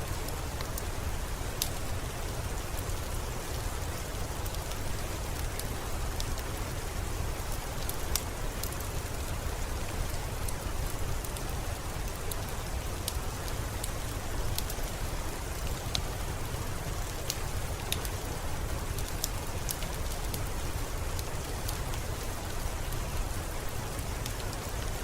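Steady rain with a low rumble underneath, mixed with scattered sharp crackles from a wood fire in a fireplace.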